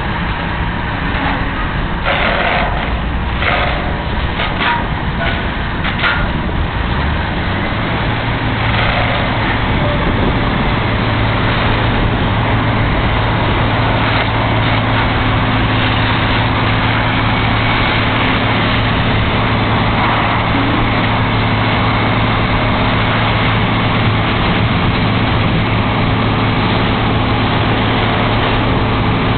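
P-19 aircraft rescue and firefighting crash truck's diesel engine running hard under load, a steady low drone that settles in about eight seconds in, with a few sharp clicks in the first seconds.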